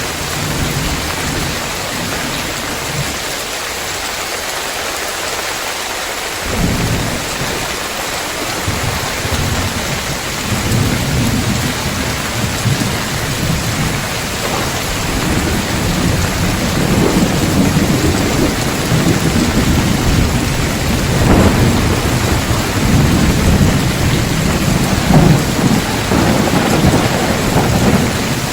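Heavy rain pattering steadily on roof tiles, with thunder rumbling underneath. The thunder eases off a few seconds in, then swells again and grows heavier through the second half, with the loudest rolls near the end.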